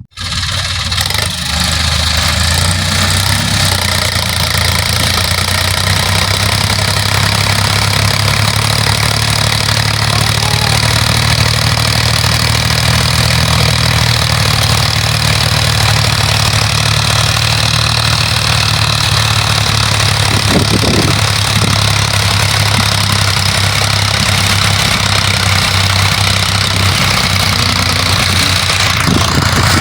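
Tractor diesel engine running loud and steady at an even speed, cutting in abruptly.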